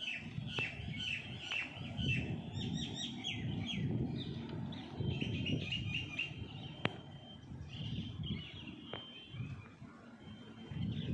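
Birds chirping and calling in quick runs of short, high repeated notes, over a low, uneven rumble, with a couple of sharp clicks.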